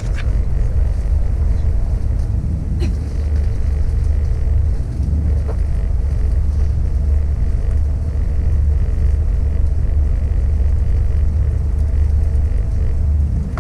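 Passenger train in motion: a steady low rumble of the running train, with a few faint clicks.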